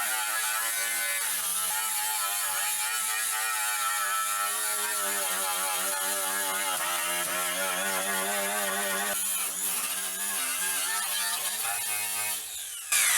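Small mini grinder spinning a wire brush against a rusty steel oil pan, stripping the rust down to bare metal. The motor whine wavers as the brush is pressed into the steel, and a steady high scratching hiss runs over it.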